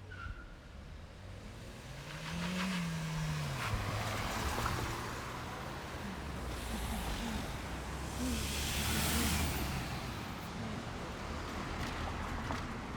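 Street traffic: motor vehicles driving past, with engine hum and tyre noise. One engine's pitch rises and falls about two to three seconds in, and a louder pass comes near the middle.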